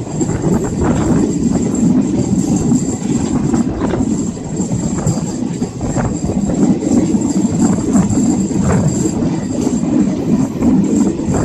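Running noise of a moving passenger train heard from beside the coach: a steady rumble of steel wheels on the rails with occasional sharp clacks and a thin steady high whine over it.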